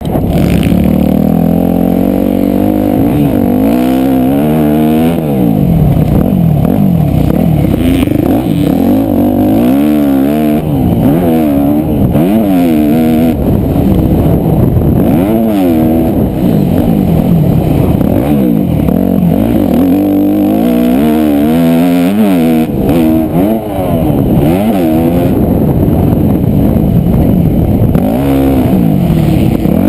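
Motocross dirt bike engine revving hard and falling off again and again, its pitch rising and dropping every second or two as the rider accelerates, shifts and backs off around the track.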